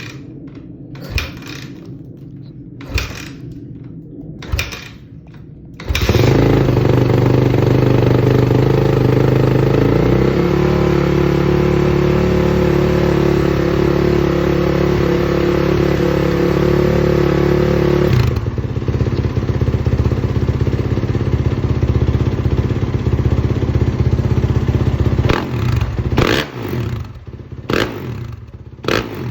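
A 2019 Suzuki RM-Z450's single-cylinder four-stroke engine, through a stainless Yoshimura RS-12 exhaust, is cold-started. It is kicked over about four times before it catches about six seconds in. It runs at a loud, steady fast idle, settles lower about eighteen seconds in, and is given several quick revs near the end.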